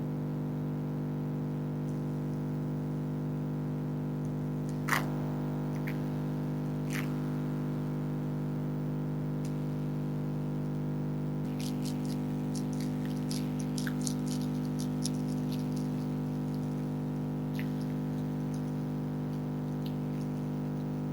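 Steady electrical hum of a freezer running, loud and constant. Over it come faint crunching clicks of foxes chewing food: a sharper click about five seconds in, and a run of small crunches a little after halfway.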